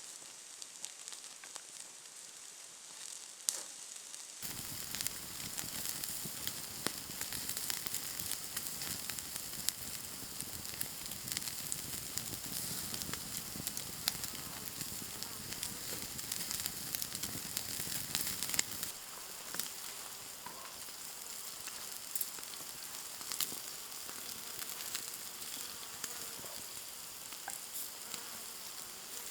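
Food sizzling as it fries in a pan, a steady hiss with scattered pops and crackles, growing fuller about four seconds in.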